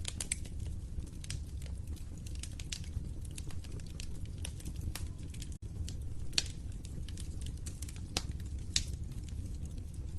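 Wood fire crackling in a fireplace: constant small pops and snaps over a low steady rumble of flames, with a few louder pops in the second half. The sound drops out for a split second just past the middle.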